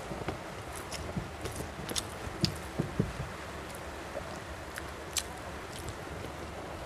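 Close-miked eating by hand: wet chewing and squishing of rice and chicken curry, with scattered sharp lip smacks and clicks, over a steady background hiss.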